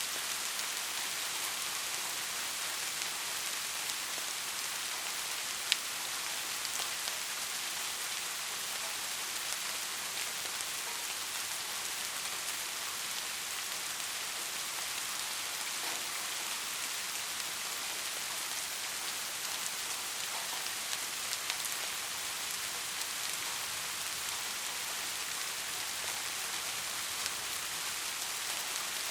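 Steady rain falling in an even hiss, with scattered individual drops ticking through it and one sharper drop tick about six seconds in.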